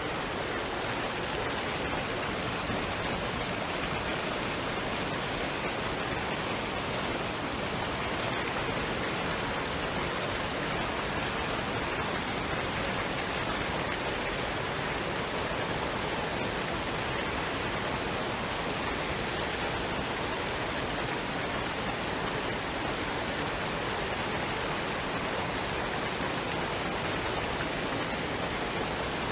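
Waterfall and stream water rushing in a steady, even roar of white noise.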